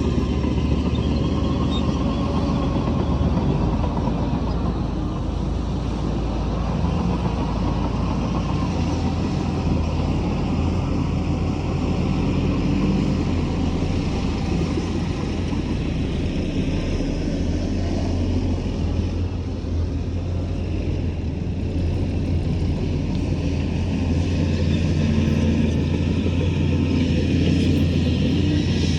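Heavy diesel engine of earthmoving machinery running steadily, a deep, even rumble.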